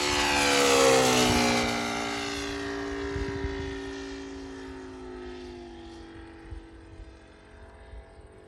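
ASP 400 radial glow engine of an RC Yak 55 model airplane at full power, flying past. It is loudest about a second in, drops in pitch as it goes by, and fades away.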